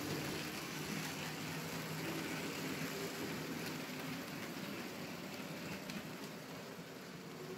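Märklin H0 model train running past on metal M-track: a steady rumble and rattle of the coaches' wheels on the rails, with a low hum from the diesel locomotive's motor in the first seconds, fading slightly as the train moves on.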